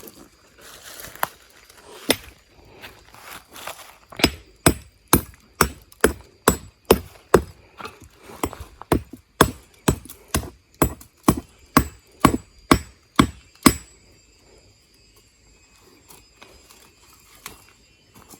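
A hand tool striking again and again, about two sharp blows a second for some ten seconds, then stopping.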